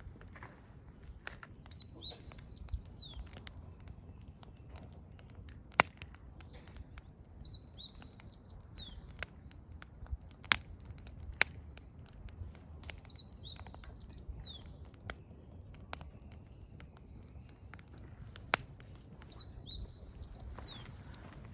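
Burning firewood crackling, with sharp pops about six, ten and a half, eleven and a half, and eighteen and a half seconds in. Over it a songbird sings the same short, high, quick phrase four times, about every five to six seconds.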